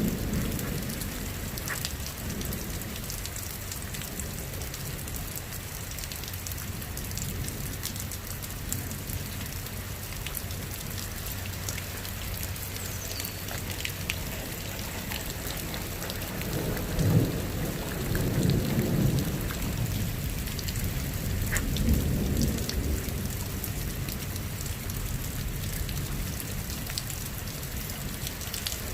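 Steady heavy rain falling during a thunderstorm, with low rolls of thunder at the start, a louder rumble a bit past the middle, and another a few seconds after it.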